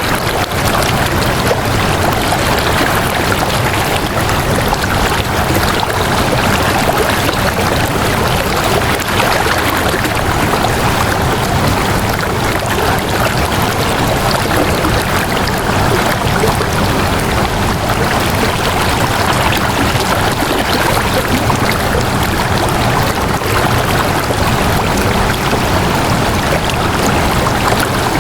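Flowing water rushing steadily and evenly, without pauses or distinct splashes.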